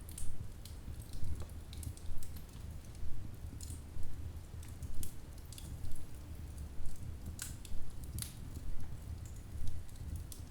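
Wood fire crackling: many scattered sharp pops and snaps over a low, steady rumble of flames.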